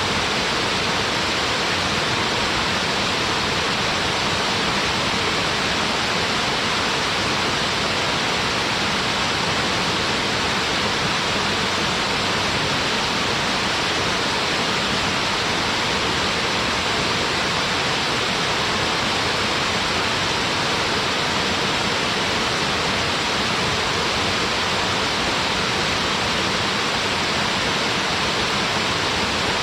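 Small waterfall on a mountain stream: water falling and rushing steadily, an even full-spectrum roar with no changes.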